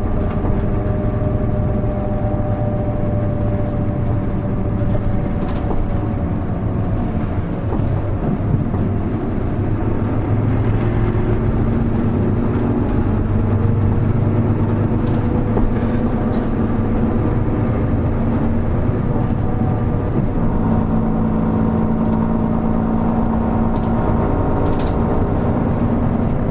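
Onboard running sound of a Hino Rainbow HR city bus (KL-HR1JNEE): the diesel engine and drivetrain run steadily under road noise, their pitch falling and rising several times as the bus changes speed. A few brief knocks from the body sound at intervals.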